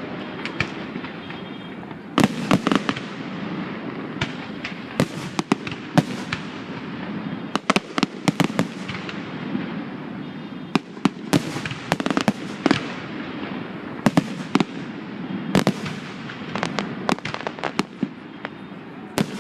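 Fireworks display: aerial shells bursting in rapid, irregular succession, dozens of sharp bangs over a continuous rumble of crackling and echoing reports.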